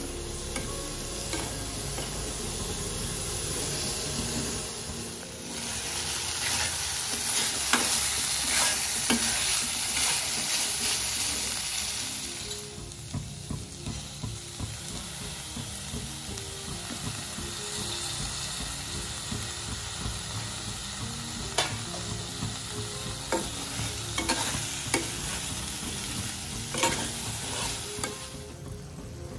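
Chicken pieces sizzling in a frying pan with chilli, ginger and garlic paste while a spatula stirs and scrapes against the pan, with frequent sharp clicks. About halfway through the sizzle dips briefly as chopped tomatoes are dropped in, then the stirring and frying go on.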